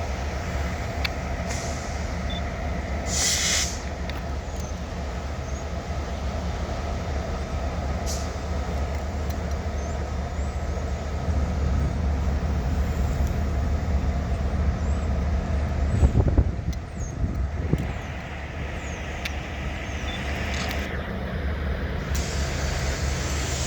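EMD diesel freight locomotives running with a steady low engine drone. A sharp air-brake hiss comes about three seconds in, with shorter hisses later, and a few low thumps about two-thirds of the way through.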